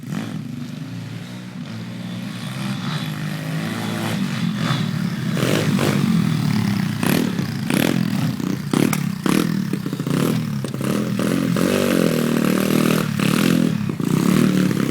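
A pit bike's single-cylinder four-stroke engine revving as the bike rides. It grows louder over the first six seconds as it comes closer, then runs hard with the revs rising and falling and a string of sharp cracks and clatter.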